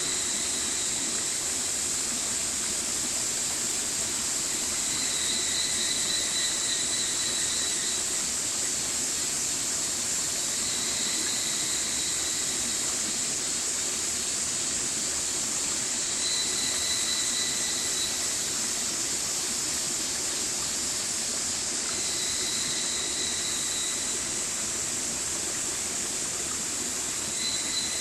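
Stream water running steadily with an even rushing hiss. A faint high tone comes and goes about every five or six seconds, each time lasting about two seconds.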